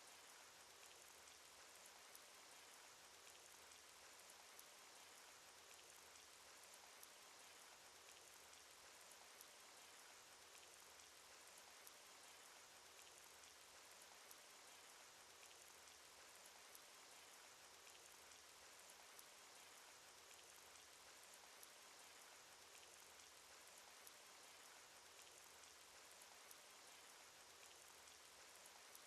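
Faint, steady cartoon rain sound effect: an even hiss of rainfall dotted with many small drop ticks.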